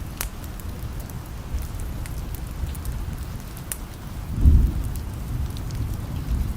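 Steady rain with low thunder rumbling under it, swelling briefly about four and a half seconds in. Scattered sharp ticks sound over the rain.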